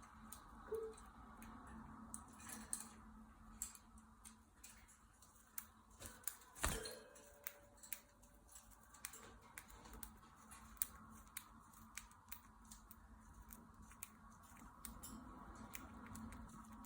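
Faint, irregular clicks and scratches from cockatiels moving about, with one sharper knock about six and a half seconds in followed by a soft, steady note lasting about two seconds.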